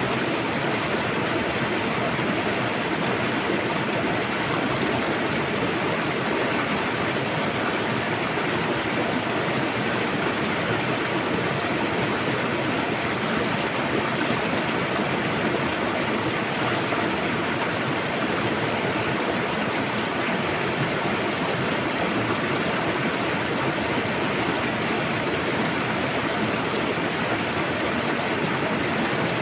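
Fast-flowing river rushing steadily, a constant even wash of water with no change in its sound.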